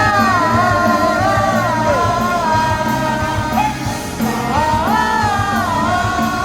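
Live pop song: a singer holding long, gliding notes with vibrato over a full band accompaniment with a steady bass.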